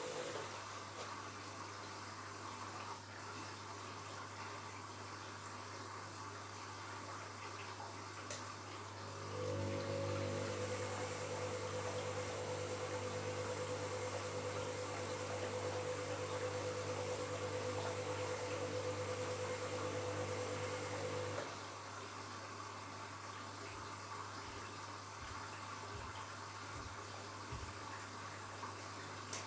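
Washing machine taking in water for a bed-linen wash, a steady hiss of inflowing water over a low hum. About ten seconds in, a motor with a steady buzzing tone starts and runs, then stops about twenty-one seconds in.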